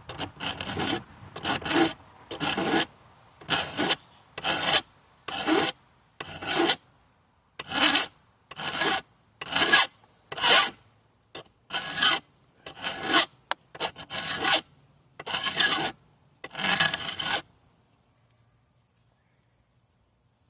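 Hand file rasping across the teeth of a chainsaw chain during sharpening, in a steady run of strokes about one a second that stops a few seconds before the end.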